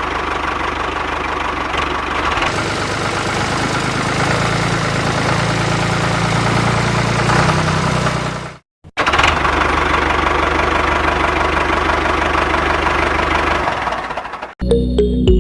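Small motor of a homemade model tractor running steadily. It breaks off for a moment about nine seconds in, then starts again straight away. It stops shortly before the end, where music begins.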